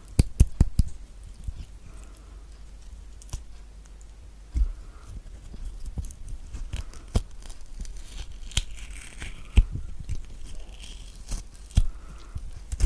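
Kiwi fruit being scooped out, close-miked: soft wet scraping of the flesh with sharp clicks. There is a quick run of clicks at the start, then single clicks spread through the rest.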